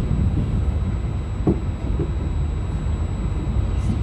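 Steady low rumble of a Trenitalia regional train carriage running over the tracks, heard from inside, with one brief thump about one and a half seconds in.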